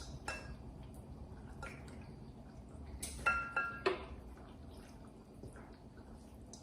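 Pasta being spooned from a mixing bowl into a casserole dish: a few light clinks of the spoon against the dishware, two with a short ring, about three to four seconds in, amid faint wet scooping.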